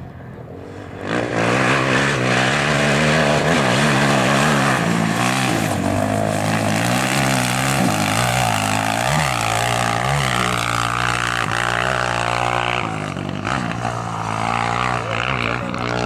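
A competition vehicle's engine revving hard on the gravel stage, its pitch climbing and dropping repeatedly through gear changes and lifts, loud from about a second in and easing after about thirteen seconds.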